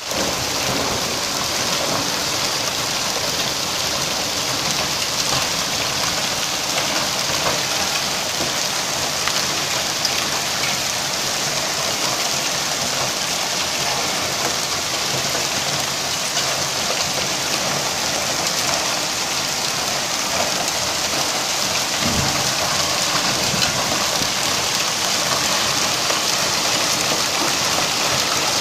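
Hailstorm downpour: hail and heavy rain pelting surfaces as a dense, steady patter of countless small hits. A single brief low thud comes about three-quarters of the way through.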